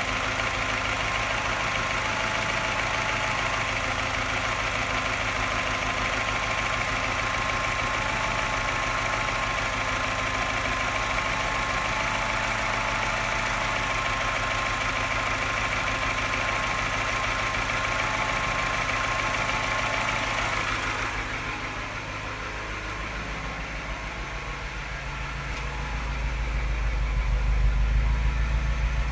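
Engine running steadily with a fine, rapid tapping. About two-thirds of the way through, the higher part of the sound falls away and the level dips, then a heavier, lower rumble builds near the end. This fits the revs dropping, which is when the owner says the engine starts tapping louder and slightly misfiring.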